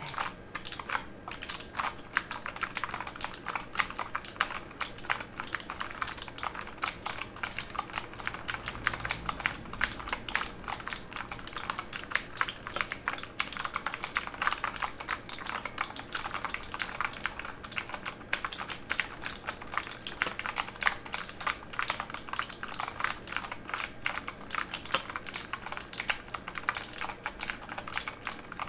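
Typing on a mechanical keyboard: fast, continuous clicking of keys, several strokes a second in an uneven rhythm.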